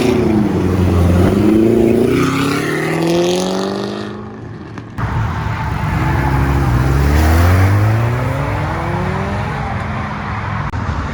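A car engine revving hard as the car accelerates away, its pitch climbing steadily. After an abrupt cut about five seconds in, a second hard acceleration with rising revs.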